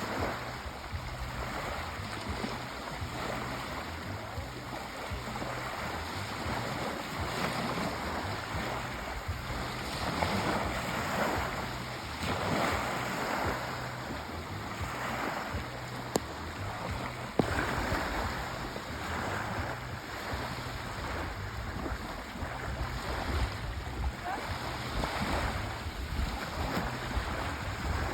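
Sea waves washing ashore, a steady surf that swells and eases every couple of seconds, with two brief clicks about halfway through.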